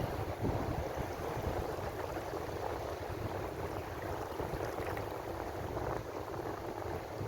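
Ocean surf: a steady, even rush of breaking and washing sea water with a low rumble underneath.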